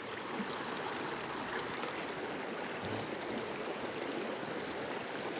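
Small river's water running steadily, an even rushing sound.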